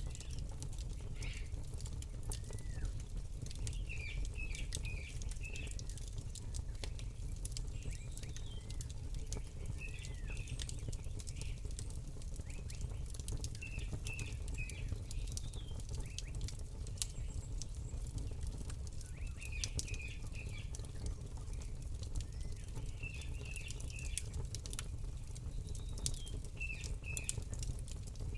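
Campfire crackling, with irregular sharp pops over a low steady rumble. A songbird chirps short quick runs of high notes every few seconds.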